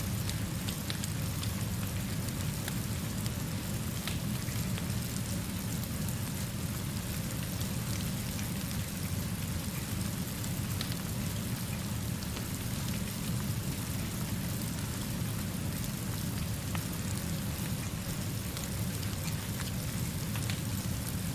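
Steady rain mixed with a gentle fire: an even hiss of rainfall over a low rumble, with scattered faint clicks.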